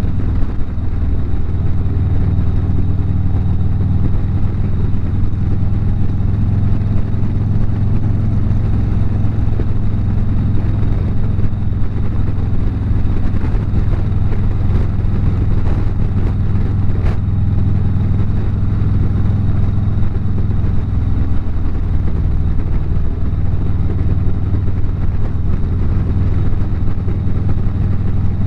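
Harley-Davidson motorcycle's V-twin engine running steadily at highway cruising speed, a constant low rumble.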